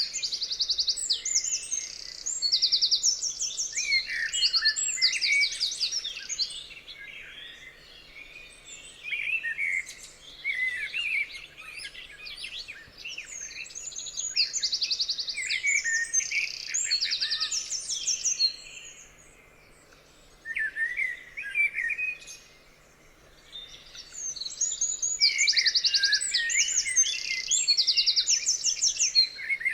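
Songbirds singing, with fast, evenly repeated high trills and quick chirps overlapping, easing off briefly about two-thirds of the way through before picking up again.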